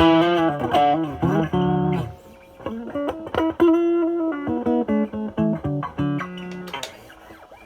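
Semi-hollow electric guitar with P90 and humbucker pickups, overdriven by a NOBELS ODR-1 pedal (bass-cut mod) into a Marshall Valvestate amp's drive channel, playing improvised single-note lead phrases. There is a short pause about two seconds in, and a held note dies away near the end.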